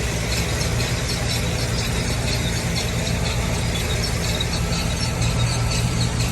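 Harvest truck's engine running steadily under a high, rapidly repeating mechanical squeak, in the cab during onion harvesting.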